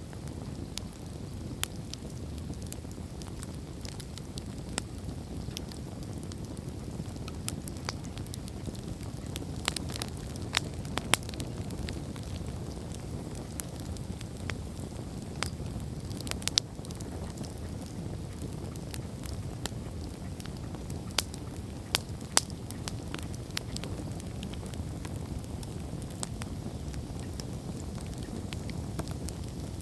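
Wood campfire burning: a steady low rush of flames with sharp, irregular crackles and pops from the burning logs, coming in small clusters.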